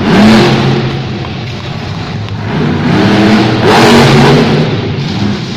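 Monster truck's supercharged V8 engine revving hard in an arena, surging right at the start and again about three seconds in.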